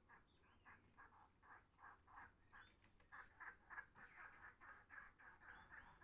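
Faint bird calls: short notes repeated several times a second, coming more thickly after about three seconds.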